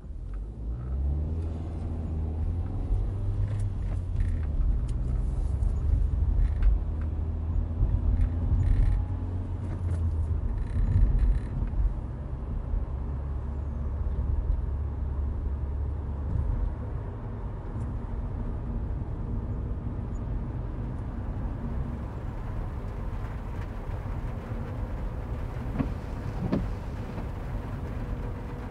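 Car engine running, a low rumble heard from inside the car. It is louder for the first half and eases somewhat after about seventeen seconds, with rain hitting the car window.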